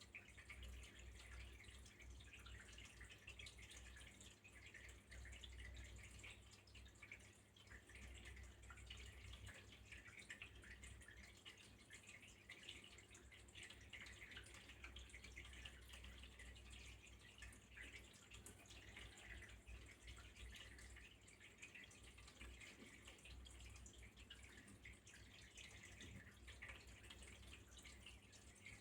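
Faint, steady trickle of flowing water, with a low hum underneath.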